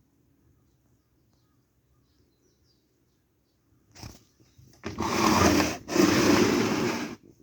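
Kawamoto N3-156SHN well pump's motor, switched on after a click about four seconds in, running in two short spells with a brief break between, a loud rough grinding noise rather than a clean hum; the seller lists the motor as making an abnormal noise.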